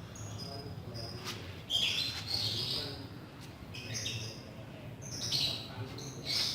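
Birds chirping in a run of short, high calls, loudest about two seconds in and again near the end, with a couple of faint clicks.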